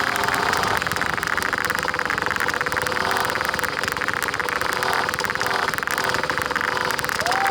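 Small 50cc dirt bike engine running steadily, with a fast, even firing rattle. A brief squeak that rises and falls comes near the end.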